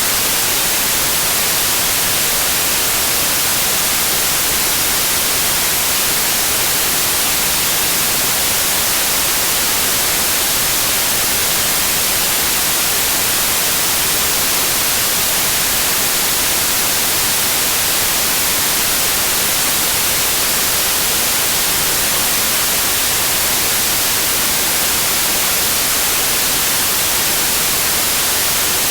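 Steady white noise: an even, loud, unchanging hiss, bright and strongest in the high frequencies.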